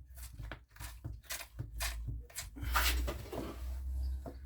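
Scattered clicks and knocks of hands and tools working on a petrol strimmer's carburettor and throttle parts, over a low rumble of handling noise that grows in the second half.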